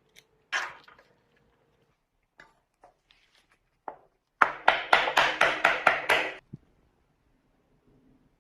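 Knocks on a hard object: one sharp knock about half a second in, a few light clicks, another knock near four seconds, then a quick run of about ten strikes over two seconds, each with a slight ring.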